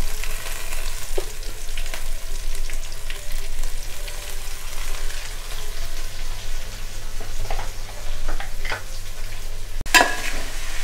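Sliced onions, green chillies and curry leaves sizzling steadily in hot oil, with scattered small crackles. Near the end a steel spoon starts stirring them, scraping in the pot.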